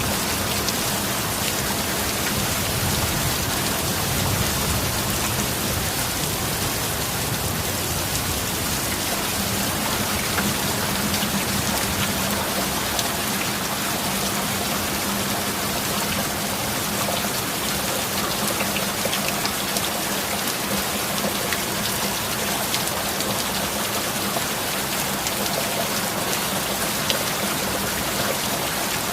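Steady heavy rain, a dense even patter of drops. A low rumble of thunder dies away in the first few seconds.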